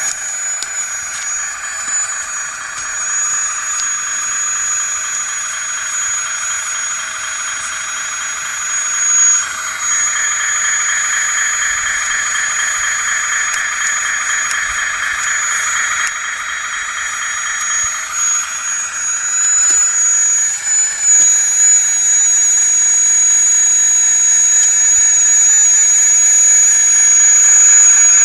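1/16 scale RC Volvo wheeled hydraulic excavator whining steadily as its electric hydraulic pump runs, with a thin high-pitched whistle over a pulsing hum. About ten seconds in, the whine grows stronger and a little higher for some eight seconds, then settles back.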